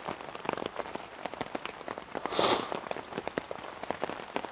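Heavy rain pattering on a hammock tarp overhead: a dense, uneven run of sharp drop strikes with no let-up, and one brief louder hiss about two and a half seconds in.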